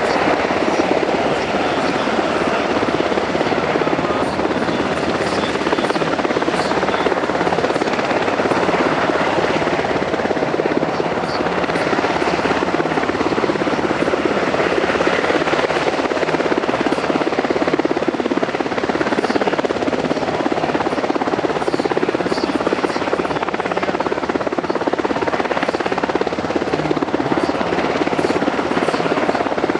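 Coast Guard MH-60T Jayhawk helicopter hovering, its rotor and twin turboshaft engines making a loud, steady noise.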